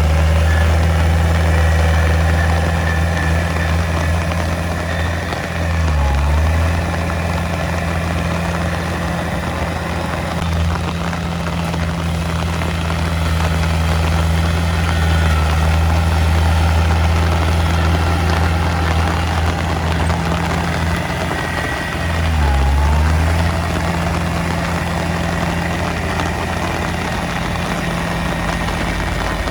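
Heavy diesel engine of earthmoving equipment running steadily. Its pitch sags briefly and comes back twice, about six seconds in and again about twenty-two seconds in.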